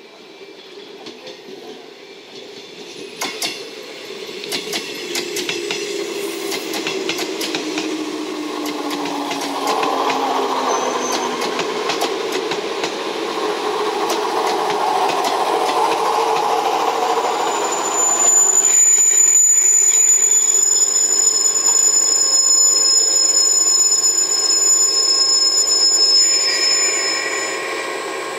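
JNR 381-series 'Yakumo' limited-express electric train pulling into the platform and slowing, growing louder as it nears. Wheels click over the rail joints early on, with a low hum falling in pitch. In the second half a steady high squeal, typical of brakes on a train about to stop, rises over the rumble of the passing cars.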